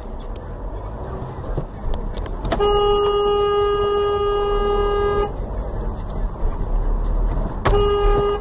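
Car horn sounding one long blast of about two and a half seconds, then a second, shorter blast near the end, over the low rumble of a car on the road.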